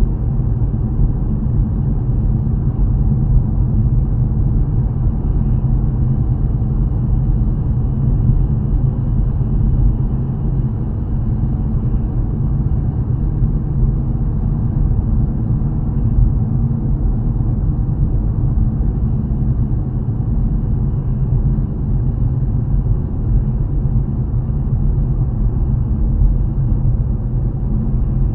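Car driving, heard from inside the cabin: a steady low rumble of engine and road noise with no change.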